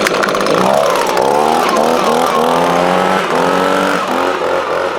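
Leaf blower running loud, its pitch rising and falling several times.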